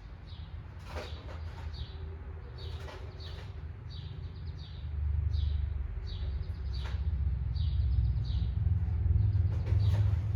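Small birds chirping, short falling chirps repeating every second or so, over a low rumble that grows louder about halfway through.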